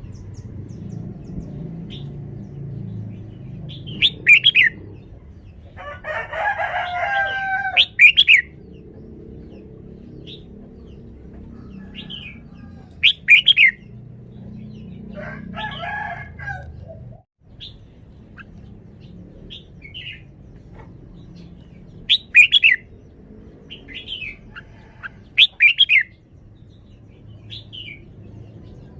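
Red-whiskered bulbul singing: short, loud, whistled phrases repeated every few seconds, with fainter chirps between them. Two longer, lower calls come in between the phrases.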